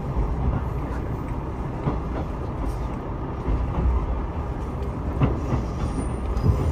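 Passenger train running on the rails, heard from inside the car: a steady low rumble with a few irregular clacks as the wheels cross rail joints.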